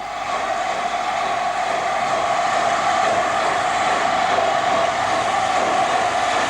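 LNER A4 Pacific steam locomotive Sir Nigel Gresley running with its excursion train: a steady rushing train noise that swells over the first second and a half, then holds.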